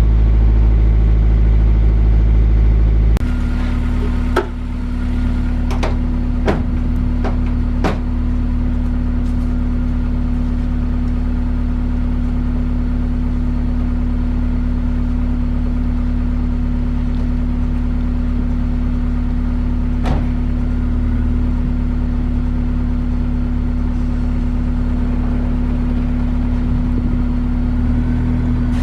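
Honda four-cylinder car engine idling steadily. The tone changes abruptly about three seconds in, and a few light clicks sound over it.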